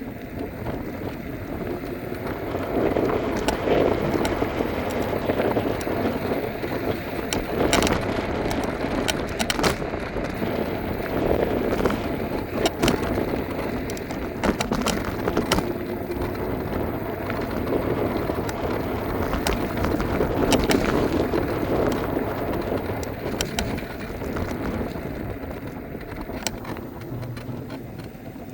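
Electric scooter in motion, its small wheels rumbling over the riding surface, swelling and easing, with scattered sharp clicks and rattles from bumps.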